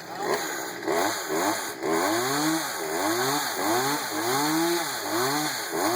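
Chainsaw cutting into a tree trunk, its engine pitch rising and falling over and over, about twice a second, as the saw bogs in the cut and picks up again.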